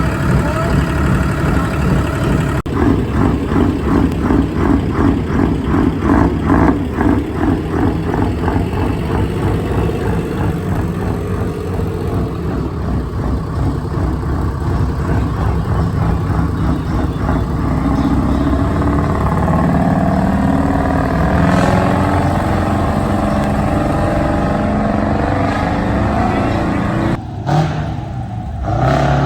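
Two-stroke Detroit Diesel truck engine running and revving, with a fast pulsing exhaust beat for the first several seconds, then a steadier engine sound that rises and falls.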